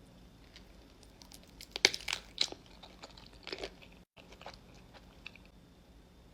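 Close-miked eating sounds: crunchy bites and chewing of food, with a cluster of loud crunches about two seconds in and another shorter one around three and a half seconds.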